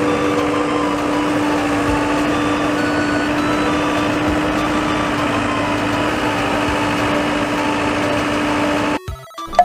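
Heavy construction machine's engine running steadily with a constant hum, stopping abruptly near the end.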